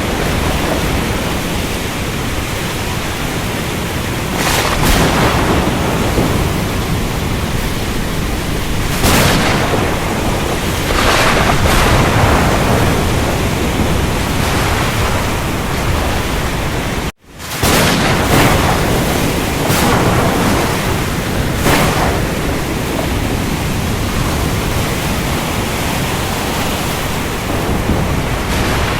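Ocean storm: a dense, steady rushing of rain and surf over a heavy low rumble, swelling every few seconds with breaking waves or thunder. The sound cuts out for an instant a little past the middle, then resumes.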